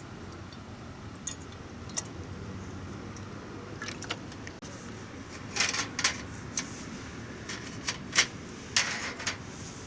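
Light metallic clinks and scrapes of camp cookware being handled, with a cluster of sharper knocks in the second half, over a steady low background.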